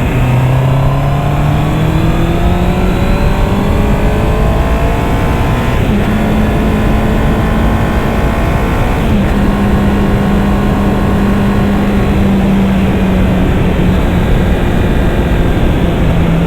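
Honda CB650R's 649 cc inline-four engine pulling under acceleration, its note climbing for about six seconds, breaking briefly around six and nine seconds in, then holding a steadier note. Heavy wind rush over the helmet-level camera runs underneath.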